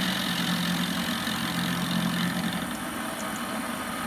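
Warco metal lathe running, a steady motor and spindle hum with a whirring hiss; about two seconds in the hum drops away and the sound fades as the machine runs down.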